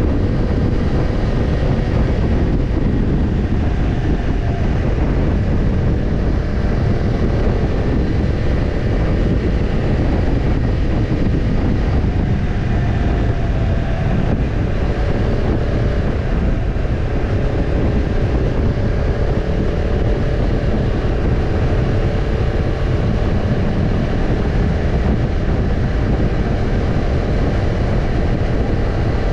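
Kawasaki Ninja 250's parallel-twin engine running through a BEET NASSERT Evolution Type II titanium slip-on muffler, at a fairly steady engine speed with only slight drifts in pitch. The exhaust note is deep and continuous.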